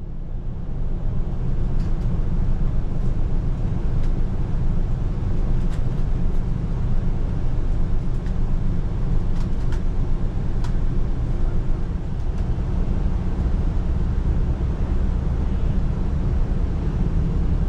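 KiHa 185 series diesel express railcar running, heard from on board: a steady low rumble with a few faint clicks scattered through it.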